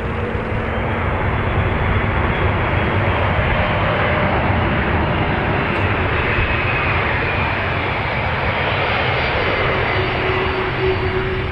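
Aircraft engines running, a steady loud rush of noise with a faint whine, swelling slightly about two seconds in.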